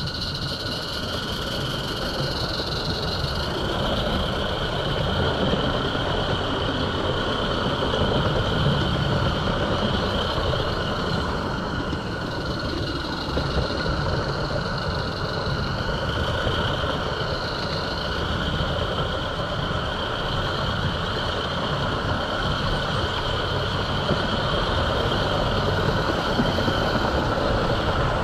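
G-scale garden railway train running along the track: a steady rolling, mechanical running noise with a continuous high whine that wavers now and then.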